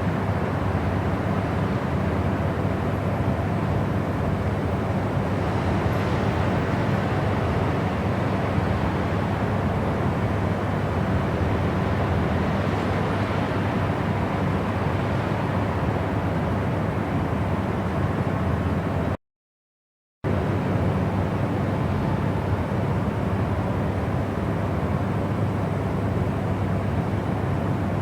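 A steady, deep rush of noise, heaviest in the bass, played as a white-noise track for study and sleep. It sounds much like the rumble inside a moving vehicle. About two-thirds of the way through it cuts out to total silence for about a second, then resumes unchanged.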